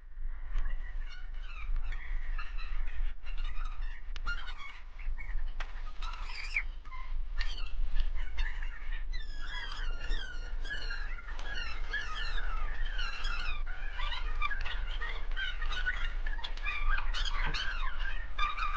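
Many birds chirping at once, with quick, rising and falling calls that grow denser about halfway through. A few sharp clicks and knocks are heard over them.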